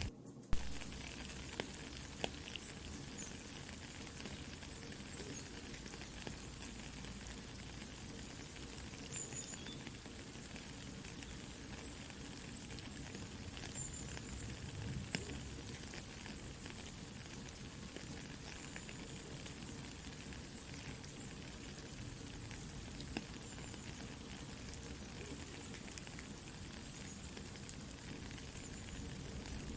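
Soft, steady rain with the sparse snaps and crackles of a campfire. The sound cuts out for an instant right at the start.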